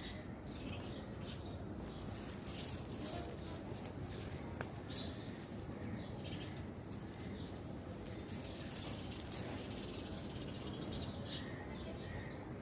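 Birds chirping in short, scattered calls over a steady background of outdoor noise.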